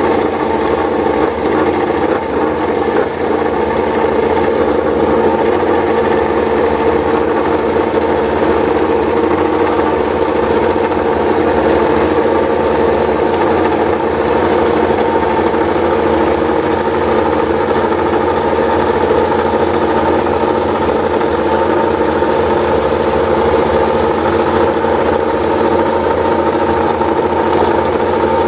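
Yamaha MotoGP racing motorcycle's inline-four engine idling steadily, loud and even, with no revving.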